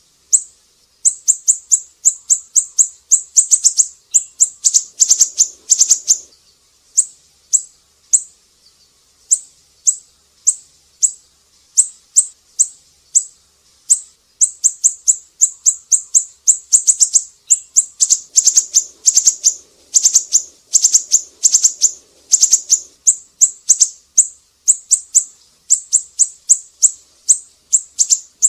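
Siri-siri songbird singing a masteran song: long runs of quick, short, high-pitched chirps, several a second, broken by brief pauses.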